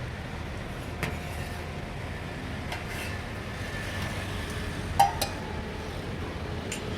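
Steady low rumble of road traffic and engines, with a few clinks of dishes; the sharpest two come close together about five seconds in.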